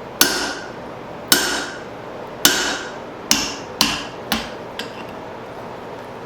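Hand-hammer blows on steel as the eye is punched through a hot hammer head: six sharp ringing strikes, about a second apart at first, then quicker and lighter, driving the slug out of the eye.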